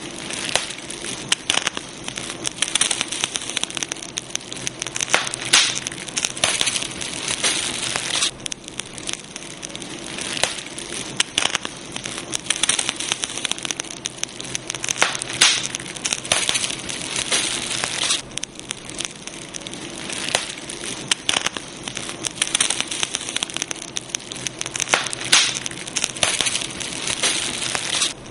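Campfire burning, wood crackling and popping irregularly over a steady hiss of flames.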